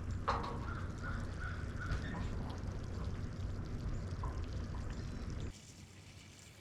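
A bird's harsh calls: one sharp call, then a quick string of short calls over the next couple of seconds, over a steady low rumbling noise that drops away abruptly near the end.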